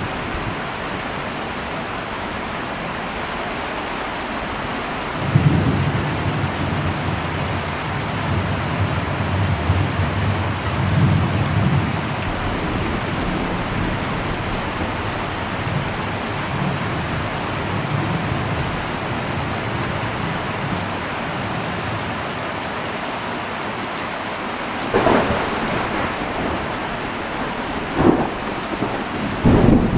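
Heavy rain drumming steadily on an old metal roof. A long rumble of thunder starts suddenly about five seconds in and dies away over several seconds, and near the end there are a few sharp cracks of closer thunder.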